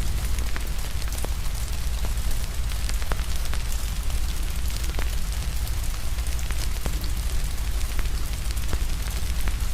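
Steady rain hiss over a low rumble, with the sharp irregular pops and snaps of a crackling wood fire scattered throughout.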